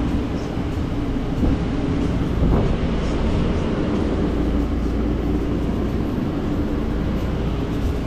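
Steady low mechanical drone of food-truck kitchen machinery running, with a few faint clicks and clatter over it.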